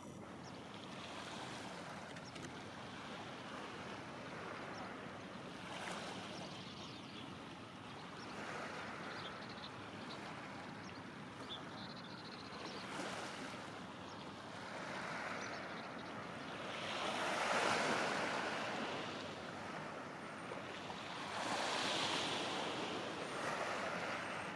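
Waves washing onto the shore with wind on the microphone, swelling loudest twice in the second half.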